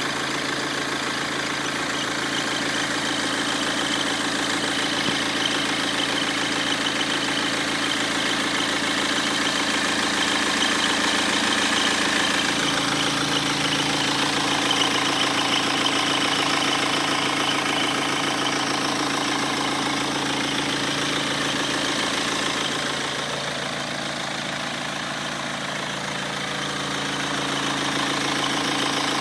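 BMW 1 Series 118d four-cylinder diesel engine running steadily at idle with a rough, old-tractor-like noise, the sign of a failing crankshaft damper pulley.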